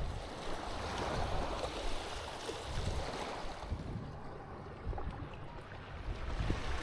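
Sea waves washing onto a beach, with gusts of wind buffeting the microphone. The wash is strongest in the first half and fades after about four seconds.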